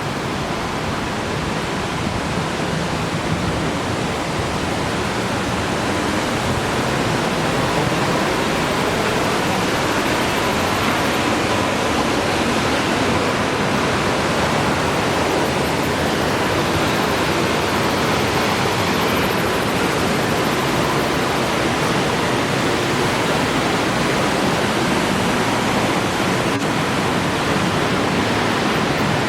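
Lanternman's Falls, a waterfall, makes a steady loud rush of falling water that grows a little louder over the first several seconds.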